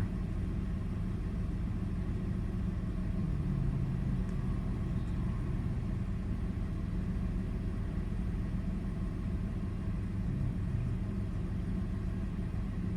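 2002 Toyota 4Runner's 3.4-litre V6 running steadily with a low, even rumble while still warming up, its new MAF sensor fitted and the engine no longer stalling.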